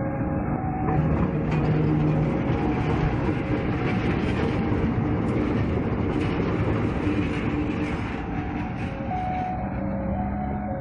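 Freight train of loaded wagons rolling past on the rails, its wheel and rail noise swelling about a second in and easing off near the end.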